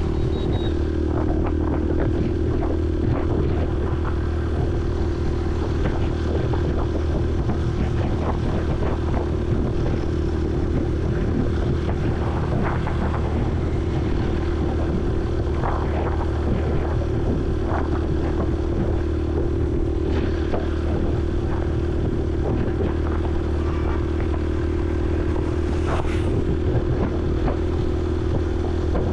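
Honda CRF150L's single-cylinder four-stroke engine running steadily at cruising speed, heard from a helmet-mounted camera, with scattered short clicks and knocks over it.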